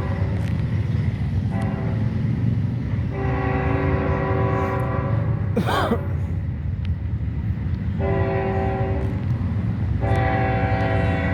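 Multi-tone air horn of a lead GE CW44 diesel locomotive sounding a series of blasts, some short and some a couple of seconds long, over the steady low rumble of the passing freight train.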